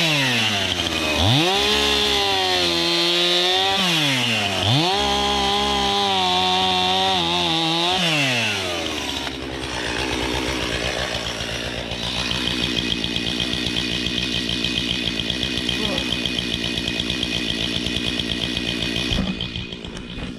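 Two-stroke chainsaw with its engine dropping off and revving back up, twice in the first eight seconds, then running steadily.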